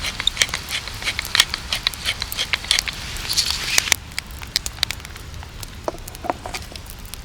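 Campfire crackling with many sharp pops, and a hissing sizzle that swells near the start and again about three seconds in.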